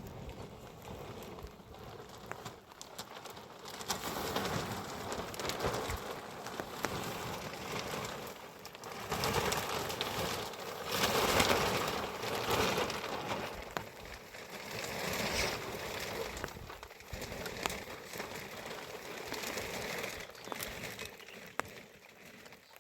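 Rain pattering, with many small clicks and knocks scattered through it; the level rises and falls.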